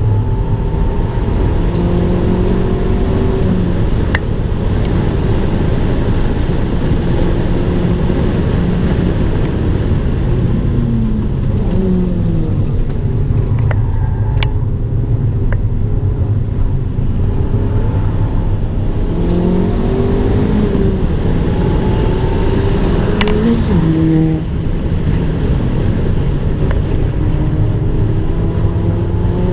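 Abarth 595 Turismo's turbocharged 1.4-litre four-cylinder engine running hard on track, its pitch repeatedly climbing and then dropping over a steady low rumble of road and wind noise.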